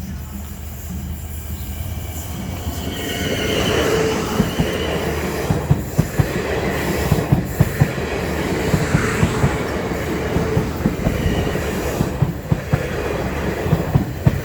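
Class 450 electric multiple unit moving through the station: a rumble builds over the first few seconds, then a run of wheel clacks over rail joints continues, several a second, with a squealing tone from the wheels above it.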